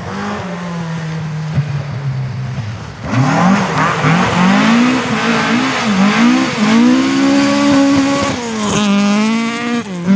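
Rally car engine at a steady, lower note, then about three seconds in it opens up and gets louder, its revs climbing and dropping repeatedly as it shifts through the gears.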